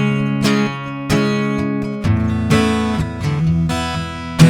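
Acoustic guitar strumming chords, each struck about once a second and left to ring.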